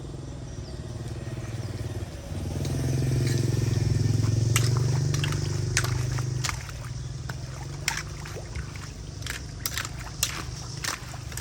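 An engine running steadily, getting louder for about four seconds from about two seconds in, then settling back. Scattered sharp clicks and knocks, more of them in the second half.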